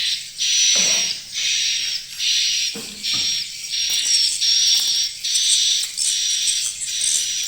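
Swiftlets chirping inside a swiftlet house: a buzzy, high twittering call repeated in a steady rhythm about once a second.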